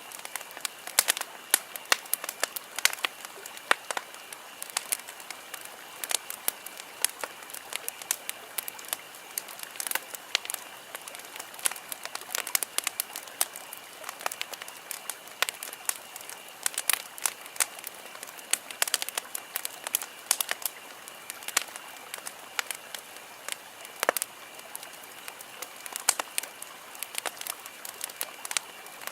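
Wood campfire crackling: irregular sharp pops and snaps of burning wood over a steady soft hiss, with a faint steady high tone underneath.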